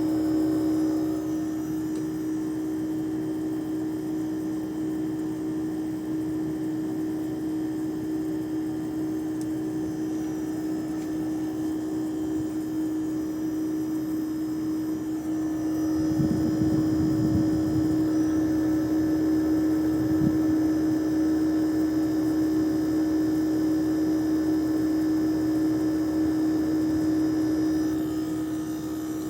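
HQ air conditioner's outdoor condenser unit running with a loud, steady hum on one fixed tone, making much more noise than it should. The hum swells about halfway through and eases again near the end.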